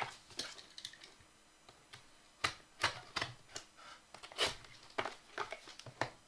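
Trading-card packaging being handled as a new box is opened: a string of separate sharp clicks and taps at irregular spacing, with short quiet gaps between them.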